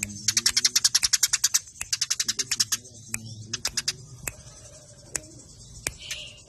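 Eurasian tree sparrows (burung gereja) in an aggressive, fighting chatter: fast dry runs of sharp chirps, about ten a second. One run lasts about a second and a half at the start and another follows shortly after, then the calls thin to scattered single chirps.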